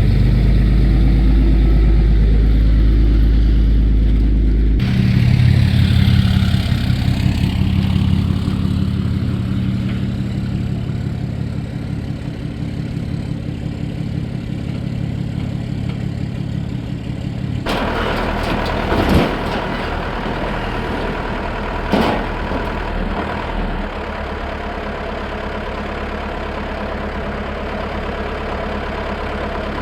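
Dodge pickup's Cummins diesel engine running as the truck is turned around. About two thirds in, the sound changes abruptly to a steadier idle, and two sharp knocks follow a few seconds apart.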